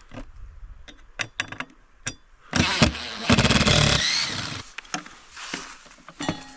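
Power drill backing out a screw: a few clicks of handling, then a short burst of the motor and a longer run of about a second with a rising whine as the screw turns out.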